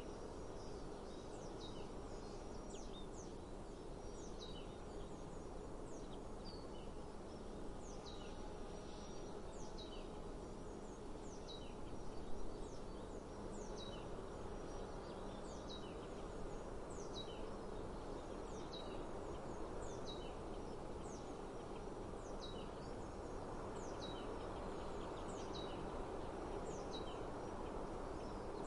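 Birds calling outdoors: short, high, downward-sliding chirps about once a second, over a steady low background hiss. A brief louder bump about twelve seconds in.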